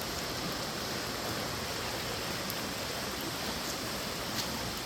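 Steady rushing of water, an even hiss with no distinct events.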